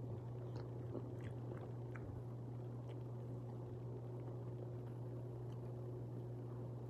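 Close-up chewing and mouth smacks of someone eating chicken and macaroni by hand, a few faint wet clicks here and there, over a steady low hum.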